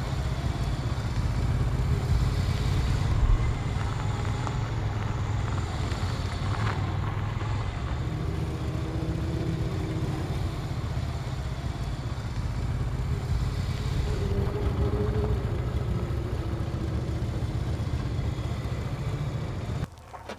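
Cruiser motorcycle engine running with a steady low rumble, with one brief sharp knock about three seconds in. The engine sound cuts off just before the end.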